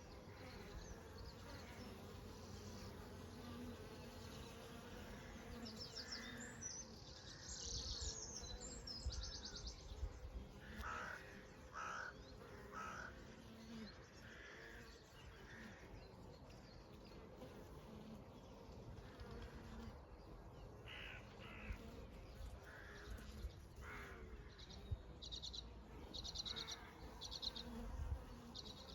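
Honey bees buzzing in a steady, faint hum, with birds calling over it: trilling calls a few seconds in and again near the end, and lower calls in between.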